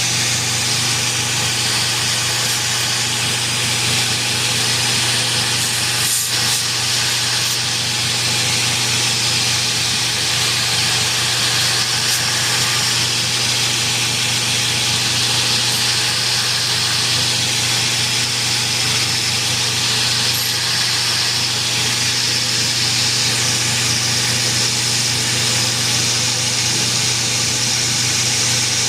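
A shop machine running steadily without a break: an even hiss over a low hum, typical of a forge burner, blower or grinder in a knifemaking shop.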